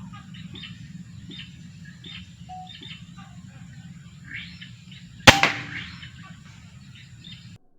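Small birds chirping in short repeated calls over a low steady background rumble, then a single sharp crack of an air-rifle shot about five seconds in. The sound cuts off abruptly near the end.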